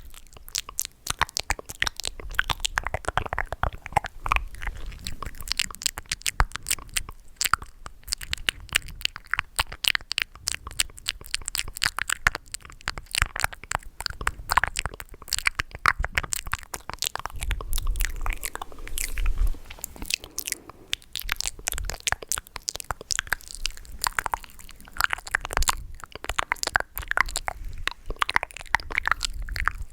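ASMR mouth sounds: a dense, irregular run of mouth clicks and smacks, many a second.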